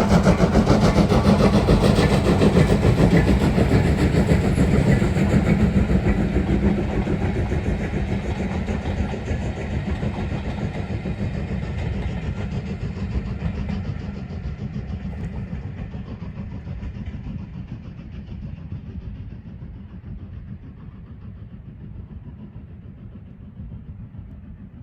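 Steam locomotive working a train past, loud at first and then fading steadily as it draws away into the distance.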